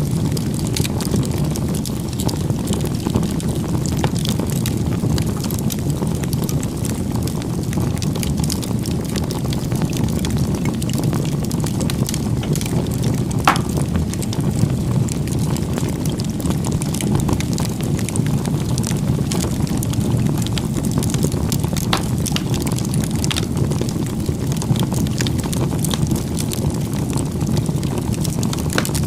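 Campfire burning: a steady low rumble of flames with scattered crackles and small pops, one sharper pop about halfway through.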